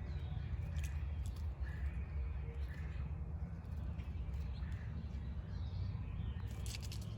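Backyard ambience: a steady low rumble with occasional faint bird chirps and a few sharp clicks.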